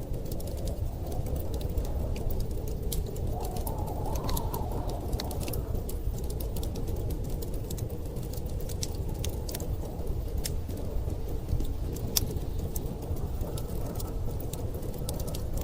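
Wood fire crackling with scattered sharp pops over a steady low rush of storm wind, with a short whistling gust about four seconds in.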